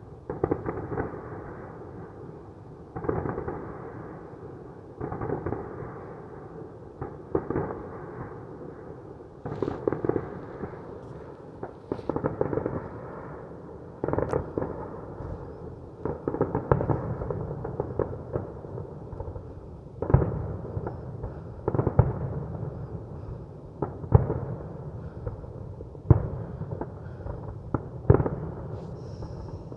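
Fireworks going off: a steady run of bangs and crackles, a fresh burst every one to two seconds, each dying away over a second or so.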